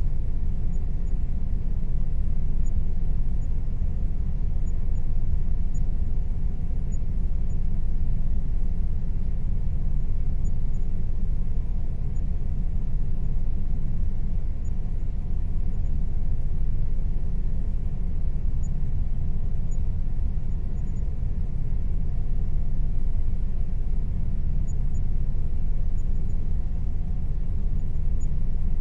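Air conditioner running steadily: a constant low rumbling hum with a faint steady tone above it.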